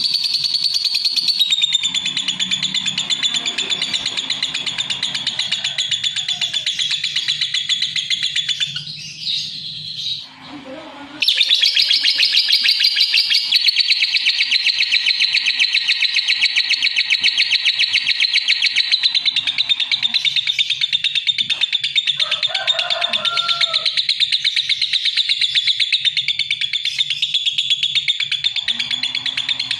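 Lovebird singing a long, fast, continuous chatter of high notes. It breaks off briefly about ten seconds in, then resumes.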